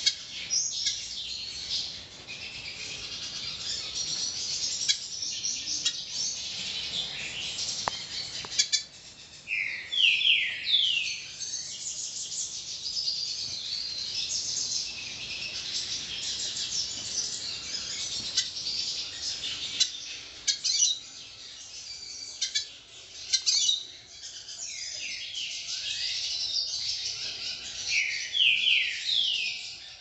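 Several wild birds chirping and singing continuously in a high, busy chorus. Twice, about ten seconds in and again near the end, a louder bird gives a run of three or four downward-sliding whistled notes.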